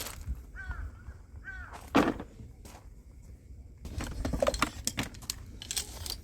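Two short falling chirps, then one sharp knock about two seconds in, the loudest sound, and a run of clicks and clatter near the end.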